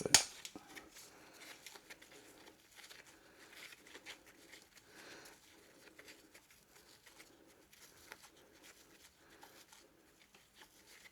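Faint handling noises of tools and parts: one sharp click at the very start, then light scattered clicks and rustling.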